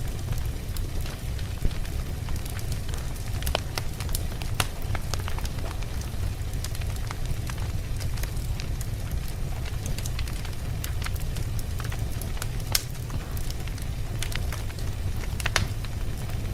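Campfire burning: wood crackling with scattered sharp pops over a steady low rumble of flames, with a few louder pops now and then.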